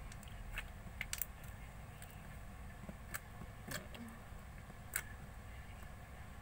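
Slime being mixed and pressed by hand, giving a few scattered small clicks and pops over a faint low rumble.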